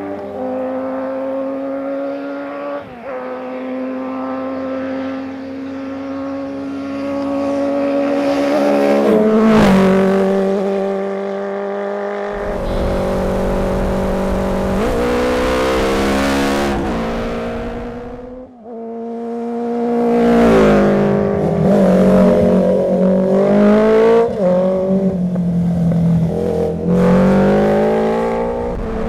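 Honda CB400 Four air-cooled inline-four motorcycle engine ridden hard, revving up through the gears. The pitch climbs and then drops sharply at each gear change, and the sound shifts abruptly a few times between passes.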